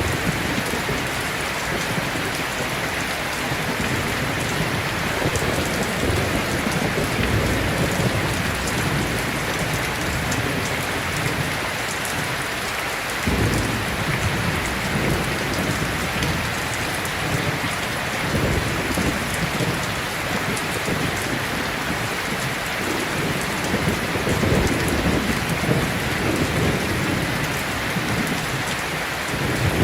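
Heavy rain pouring steadily, with low rolls of thunder swelling and fading underneath, one starting suddenly about halfway through.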